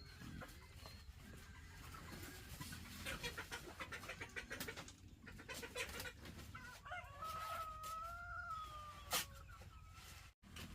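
Chickens clucking, then a rooster crows once, one long call of about two and a half seconds, ending with a sharp click.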